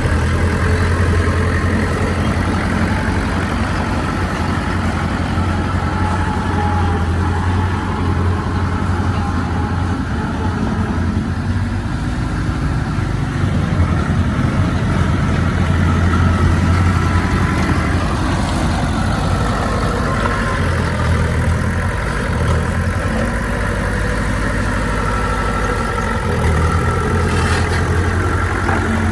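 Heavy diesel engine of earthmoving machinery running steadily with a deep, continuous hum, rising and easing slightly in load as it works.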